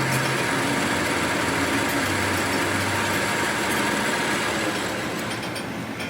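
A machine running steadily, a continuous mechanical noise that eases off a little near the end.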